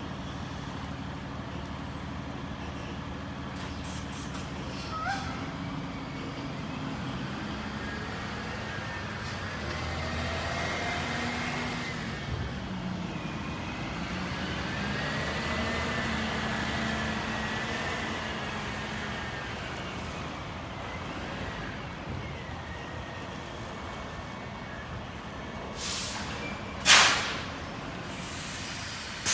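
Diesel engine of a semi-truck tractor running, its pitch rising and falling twice as it is throttled up and down. Near the end come a few short air-brake hisses, one of them loud.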